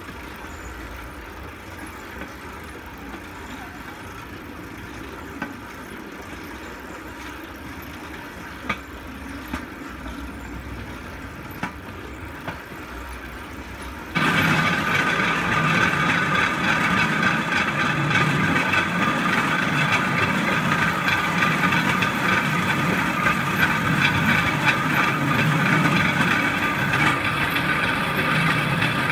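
Steel wheels of a pedal rail bike rolling along railroad track, with occasional sharp clicks. About 14 seconds in, the sound jumps abruptly to a much louder steady rumble with a high metallic ringing whine from the wheels on the rails.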